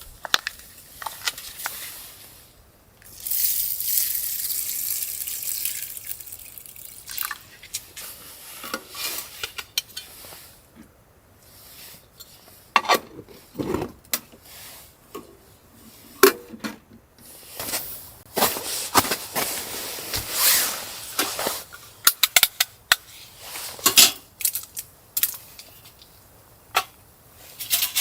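Small hard objects being handled: scattered clicks, clinks and knocks, with a steady hiss lasting about three seconds a few seconds in.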